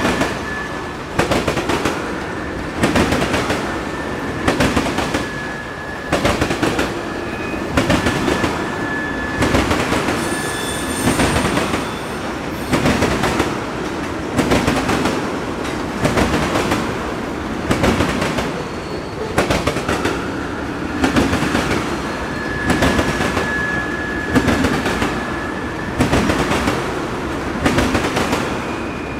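Freight train of ethanol tank cars rolling past, the wheels clacking over rail joints in a regular rhythm, a cluster of clacks about every second and three quarters as each car goes by. A thin, high wheel squeal comes and goes, in the first third and again past the middle.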